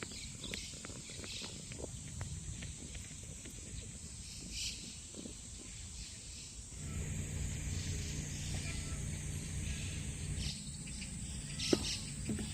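Woodland ambience: a steady high insect drone, scattered light rustles and clicks, and a few short bird chirps. About seven seconds in, a steady low hum comes in underneath.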